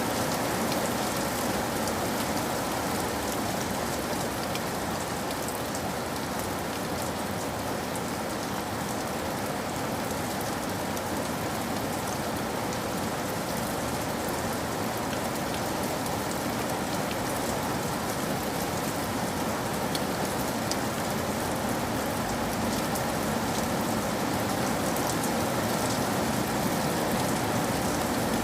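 Steady rain falling on hard surfaces, with scattered individual drop splashes.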